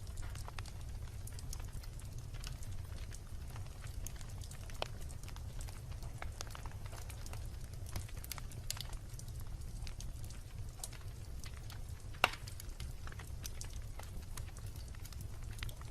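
Wood bonfire burning, with a steady low rumble of the flames and frequent irregular crackles and pops, one loud snap about twelve seconds in.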